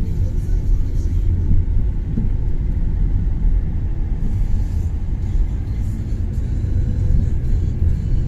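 Car driving on a snow-covered road: a steady low rumble of engine and tyre noise.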